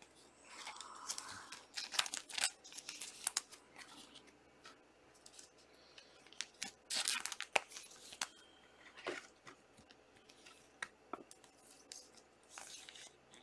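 Plastic wrappers of trading-card packs being torn open and crinkled, in irregular bursts of tearing and rustling.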